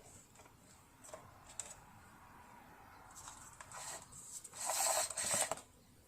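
Light clicks and taps of hands and tools working on a partly disassembled sewing machine, with a faint steady hum for a few seconds and a burst of hissing or rustling noise lasting about a second near the end.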